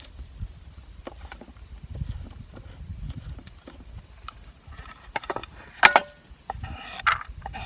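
Camp cooking gear being handled: scattered light clicks and knocks, with one sharp, louder clack about six seconds in, over a low rumble.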